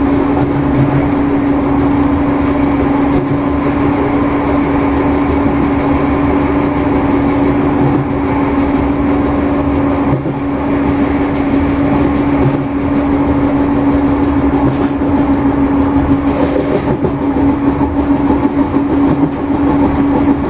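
Irish Rail 2600 class diesel multiple unit running at speed, heard from inside the leading coach by an open window. A steady diesel drone with one constant tone sits over the rumble of wheels on rail, with some irregular knocks from the track in the later seconds.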